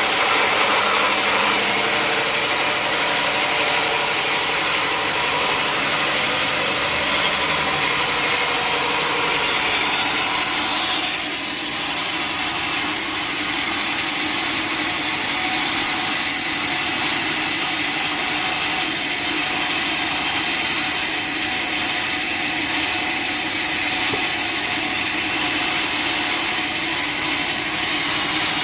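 Sawmill running, its blade sawing steadily through a mahogany log with a continuous rasping noise; the level dips briefly about eleven seconds in.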